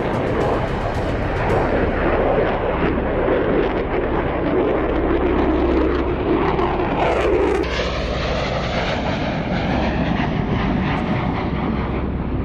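Fixed-wing jet aircraft engine noise, a steady loud rumble, with a pitch that sweeps down steeply about seven seconds in as the aircraft passes.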